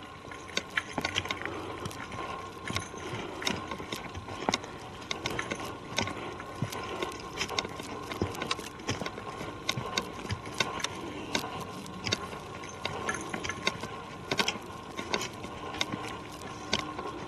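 Footsteps along a forest trail: irregular clicks and scuffs of walking over a steady quiet background.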